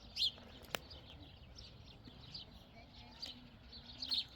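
Small birds chirping over and over in quick, overlapping short calls, with a sharp click about three quarters of a second in.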